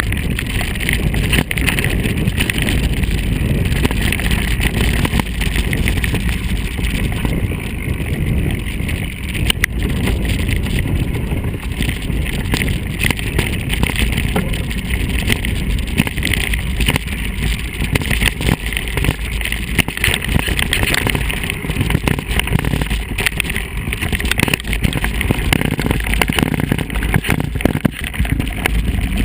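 Mountain bike ridden over rough ground: a continuous rattle of many small jolts and knocks, with wind noise on the microphone.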